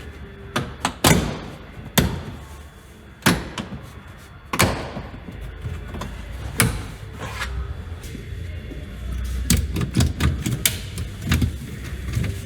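A series of irregular sharp knocks and clunks, the loudest about 1, 2, 3 and 4.5 seconds in, with more clustered near the end, over a low steady hum.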